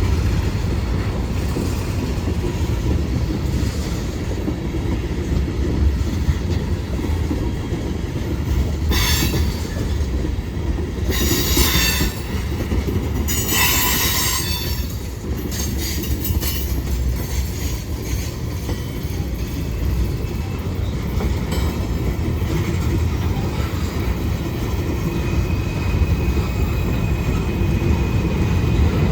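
Train rolling past: a steady heavy rumble of wheels on rail, with short bursts of high-pitched wheel squeal about nine, eleven and fourteen seconds in.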